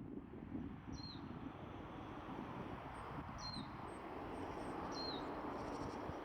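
A small bird calling three times, each a short note that drops in pitch and then briefly levels off, against a steady background hiss.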